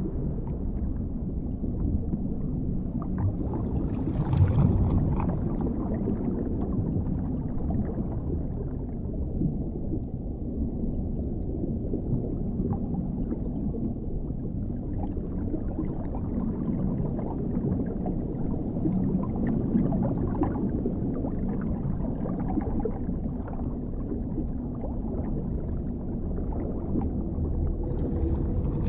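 Dark underwater ambience: a steady, deep, muffled rumble of water, swelling briefly about four seconds in, with faint crackles. A faint drawn-out tone starts near the end.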